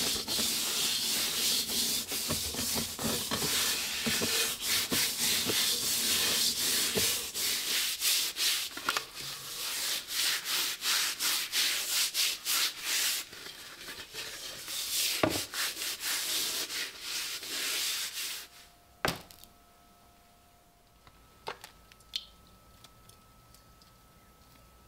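Rapid back-and-forth sanding or scrubbing on the steel shell of a rusty M40 German helmet: a dense rasping that runs for about eighteen seconds, then stops. A few separate knocks follow.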